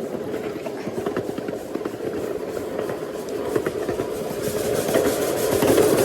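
A train rolling along the track, heard from aboard: rapid wheel clatter over a steady rumble, growing louder over the last second or so.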